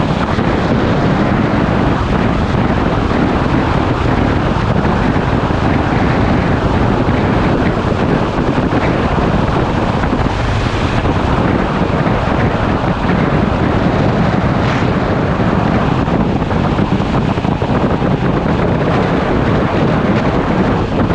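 Motorcycle engine running at a steady cruise, mixed with heavy wind rush over the microphone.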